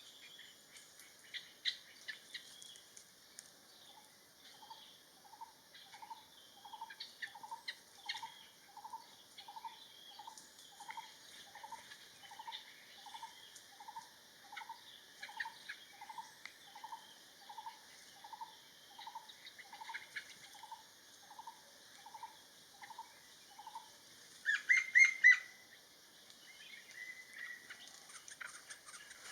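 Wild birds calling: one bird repeats a single short note, about two a second, for some twenty seconds. Scattered higher chirps from other birds run over it, and there is a louder burst of chirping about 25 seconds in.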